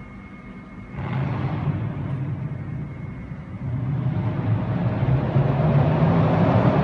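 Mercedes CLS 500's straight-piped V8 exhaust: steady at idle, then about a second in the engine opens up sharply and stays loud. It eases briefly, then builds louder again toward the end.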